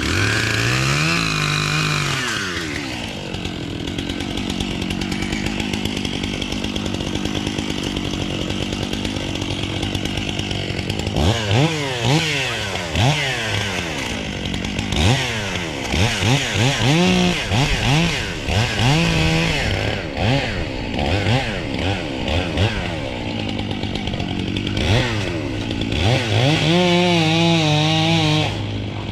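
Two-stroke chainsaw running, its engine revved up and down again and again from about a third of the way in, then held at high revs for a couple of seconds near the end.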